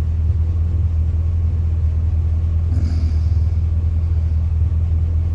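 Steady low rumble of a Chevy 350 (5.7 L) V8 vehicle running, heard from inside, with the radiator fans and AC switched off.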